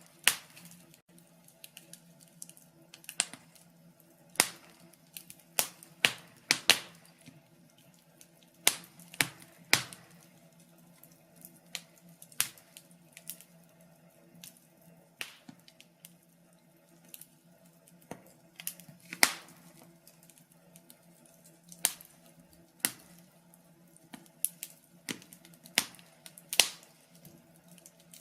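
Wood fire crackling in a fireplace: irregular sharp pops and snaps, several a second, with a few louder ones standing out, over a faint steady low hum.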